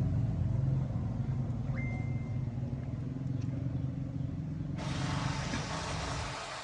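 A vehicle engine running steadily, its low drone slowly getting quieter. A steady hiss starts about five seconds in.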